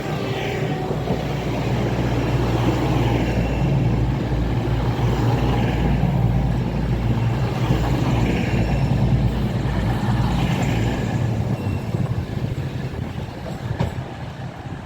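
East Midlands Railway Class 222 Meridian diesel multiple unit running into the platform, its underfloor diesel engines humming with wheel and rail noise. The sound builds, holds, then eases off near the end as the train slows.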